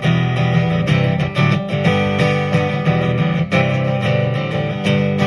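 Acoustic guitar strummed in a steady rhythm, playing the closing bars of a song; a final chord is struck near the end and left ringing.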